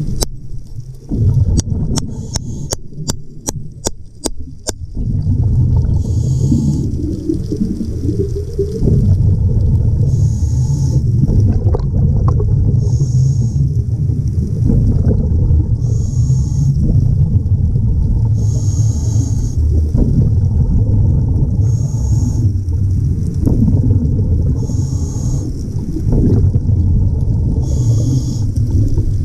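Underwater sound of a diver breathing through a regulator: a hiss about every three seconds over a steady low rumble of bubbles and water. A quick run of sharp clicks comes near the start.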